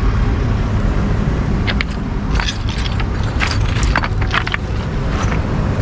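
A tow truck's engine running steadily, with a run of light metallic clinks and jingles from about two seconds in until near the end.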